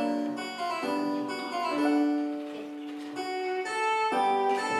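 A keyboard playing a short melody over chords, the notes held and changing every half second or so.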